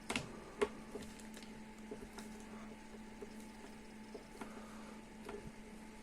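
Light clicks and taps from handling the angle grinder and its cord, two sharper ones in the first second, over a faint steady hum; the grinder is not running.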